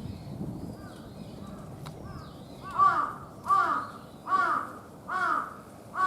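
A crow cawing five times in a steady series, about one loud caw every second, beginning a little under halfway through. Fainter small-bird chirps come before the caws.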